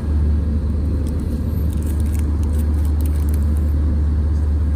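Airliner cabin noise in flight: a steady, loud low drone of the jet engines and airflow around the fuselage.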